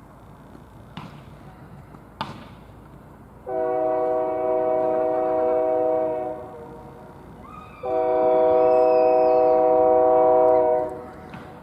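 Diesel locomotive air horn sounding two long blasts of a steady multi-note chord, a few seconds apart, over a faint background hiss.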